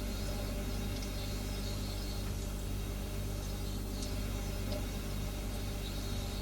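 Refrigerator humming steadily, a low drone made of several fixed tones.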